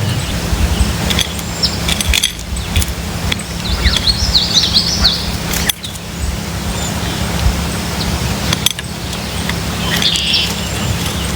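Wild birds chirping: a quick run of high chirps a few seconds in and another short burst near the end, over a steady low hum and scattered faint clicks.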